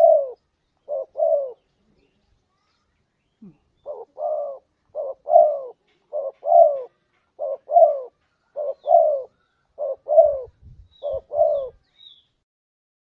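Spotted dove (tekukur) cooing its repeated two-part 'kuk dua' phrase: a short note followed by a longer arched note, about once a second. Two phrases come first, then a pause of about two seconds, then a run of seven.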